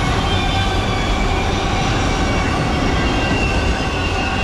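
Empty autorack cars of a freight train rolling past close by: a loud, steady rumble and rattle of steel wheels on rail, with a thin high wheel squeal that grows stronger in the second half.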